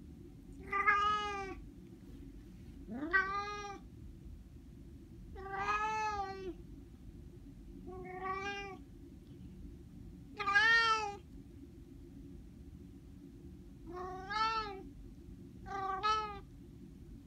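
A cat meowing over and over: seven drawn-out meows, about one every two seconds, the third sliding up in pitch at its start.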